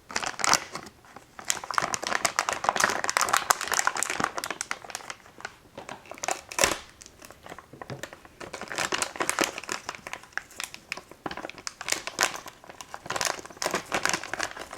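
Packaging around a graphics card crinkling and rustling in uneven bursts as it is handled and worked open.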